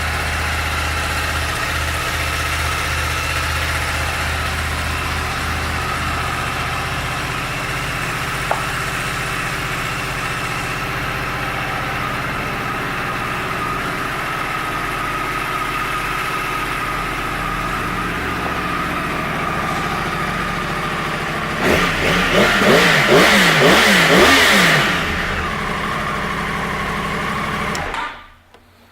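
2014 Yamaha YZF-R1's crossplane inline-four engine idling steadily, then revved in several quick blips about three-quarters of the way through, which are the loudest part. It settles back to idle and is switched off near the end, cutting out suddenly.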